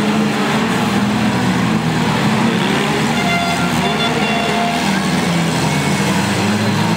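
Several demolition derby cars' engines running together in a loud, steady din.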